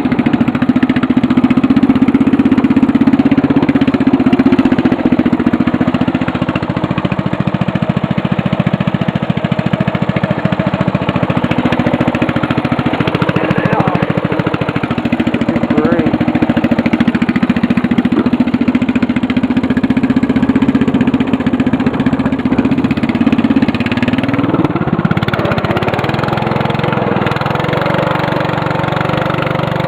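Murray riding mower's engine running steadily while the mower drives through snow, its speed dipping briefly about halfway through. About 25 seconds in the engine drops to a lower, steadier speed.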